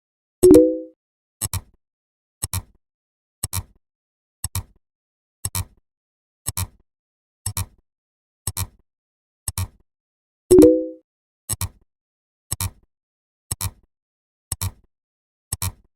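Electronic sound effects: a short double click about once a second, evenly paced. A louder short tone sounds twice, about a second in and ten seconds later, dying away within half a second.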